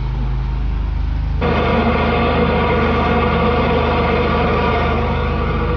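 Engine of a high-pressure drain-cleaning jetter running steadily. About a second and a half in, the sound suddenly gets louder and fuller, then holds steady.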